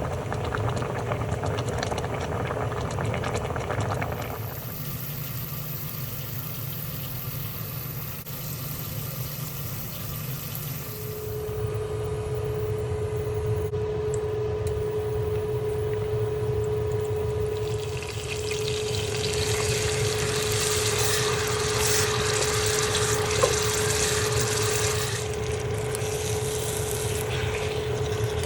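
Water running and splashing, with a steady hum that starts about eleven seconds in.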